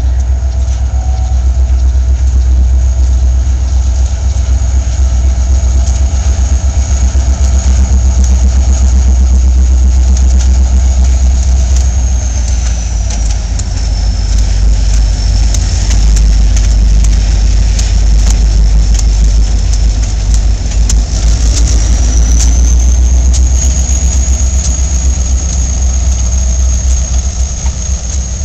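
Diesel locomotive engine running steadily at idle, a deep low rumble, with a thin high whine that drops in pitch partway through and rises back again later.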